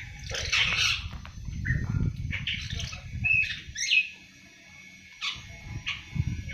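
Young awar-awar bird twittering ('ngriwik'): short, scattered high chirps, the early soft song of a seven-month-old bird, with low rustling or flutter underneath that eases off for about a second past the middle.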